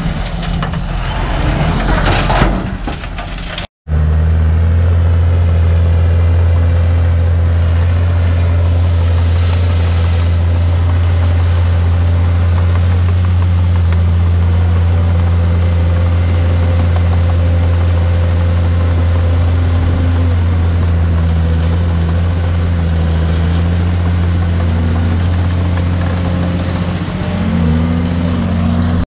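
Heavy earthmoving machine's diesel engine running steadily with a deep, even hum. A noisier stretch near the start is cut off by a brief dropout about four seconds in.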